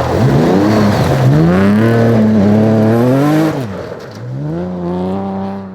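Rally car engine accelerating hard. The pitch climbs, dips briefly about a second in at a gear change, and climbs again. Around three and a half seconds in it falls steeply and gets quieter as the car lifts off, then picks up and holds steady.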